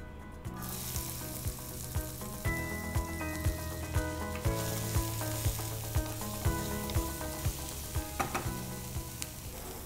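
Chopped onions sizzling in hot oil in a frying pan as they are stirred with a wooden spatula, the sizzle starting about half a second in. Background music with a steady beat plays under it.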